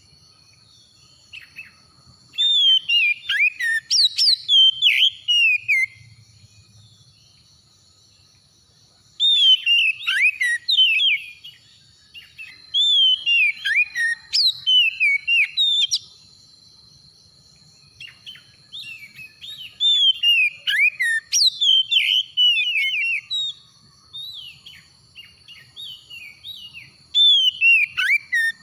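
Oriental magpie-robin (kacer) singing: rapid runs of clear whistled notes sweeping up and down, in phrases of a few seconds separated by short pauses, four or five phrases in all.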